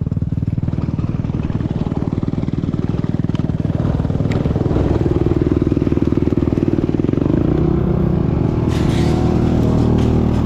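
Motocross bike engine running steadily, getting a little louder about four seconds in.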